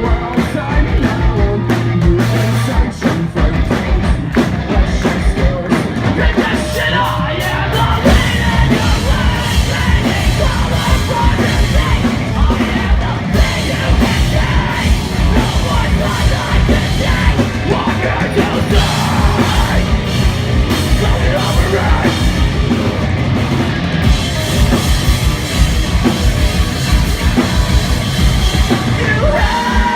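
A live punk rock band playing loud, with dense, fast drumming and guitars.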